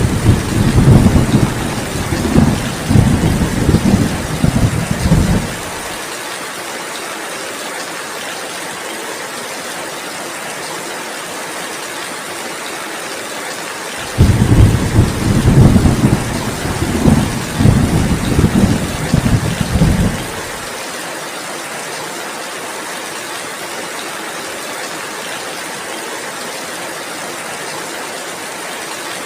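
Steady heavy rain with two long rolls of thunder, one at the start and one about halfway through. Each rumbles with several swells for about six seconds.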